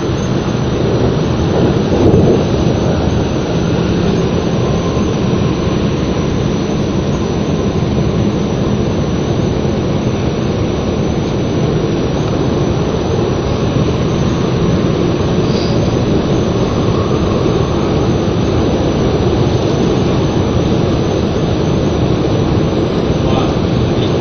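West Rail Line electric train running, a steady loud rumble and rush of noise with a faint low hum that comes and goes.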